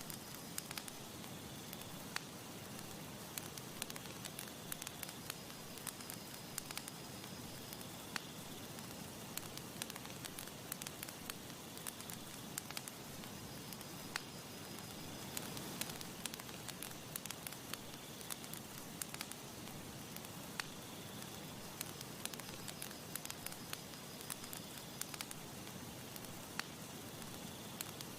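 Campfire crackling: a steady hiss broken by frequent sharp, irregular pops and snaps of burning wood.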